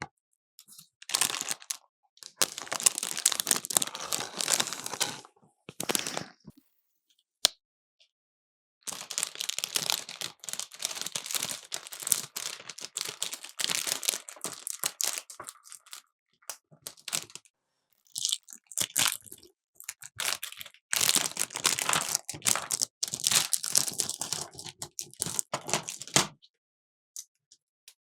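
Crinkling, crackling and tearing of plastic packaging as toy pieces are unwrapped, in several bursts a few seconds long separated by short pauses.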